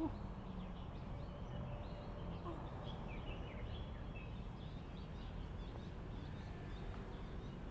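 Faint short bird chirps, clustered in the middle, over a steady low rumble of wind on the microphone.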